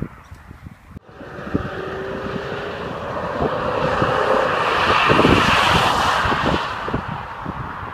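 Eleanor-style Mustang fastback's V8 running as the car approaches, growing steadily louder to a peak as it passes close by, then fading away. Wind buffets the microphone throughout.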